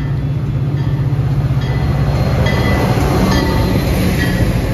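Diesel-hauled passenger train running through the station, a deep steady drone that grows louder, with brief high squeals coming and going over it.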